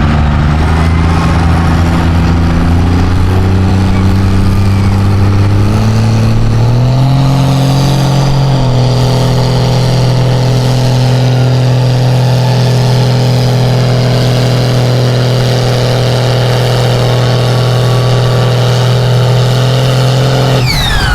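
Mega truck engine at full throttle pulling a weighted sled. The revs climb over the first several seconds, then hold steady and loud under load before dropping off abruptly near the end.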